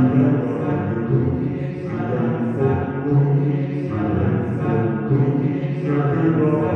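A group of voices singing a slow, chant-like song together, in phrases that repeat about every two seconds.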